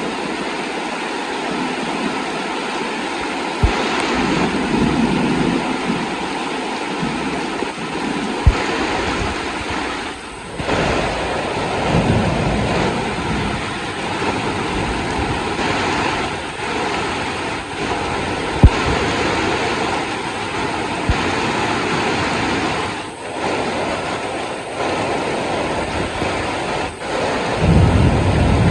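Heavy rain falling steadily, with a few sharp knocks of drops or debris hitting something, and a low rumble rising near the end.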